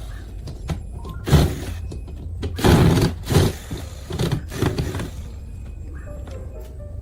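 Several short bursts of scraping and knocking, like parts being handled during a repair, over a steady low hum.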